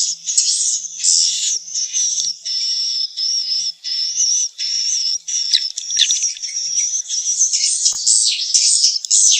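Swiftlet calls: continuous high twittering, with rapid chirps and wavering trilled notes that break off briefly now and then. This is the kind of swiftlet call played to draw swiftlets into a nest house.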